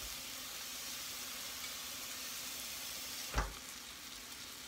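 Chicken pieces sizzling steadily in a frying skillet, with a single knock about three and a half seconds in.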